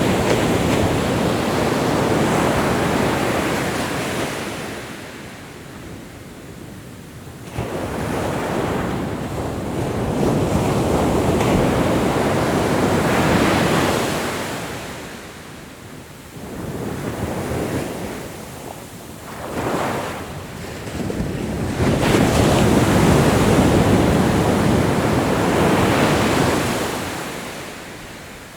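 Ocean surf: waves breaking and washing in repeated surges, each swelling for several seconds and then ebbing away, about four in all, with one surge coming in suddenly about a third of the way in.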